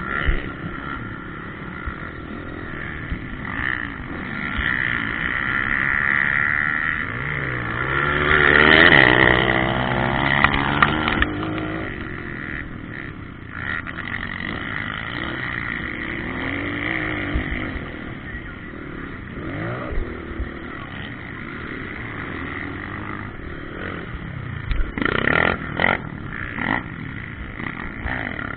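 Motocross bikes running on a dirt track, their engines revving up and down. One bike passes close and revs hard about eight to ten seconds in, which is the loudest moment.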